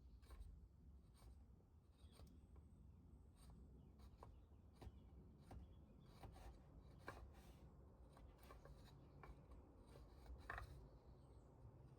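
Faint scraping and light ticks of a hand chisel carving a small piece of wood, in short irregular strokes.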